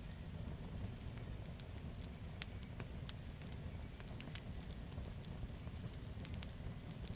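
Campfire burning, with a steady low rumble and frequent irregular sharp crackles and pops from the burning wood.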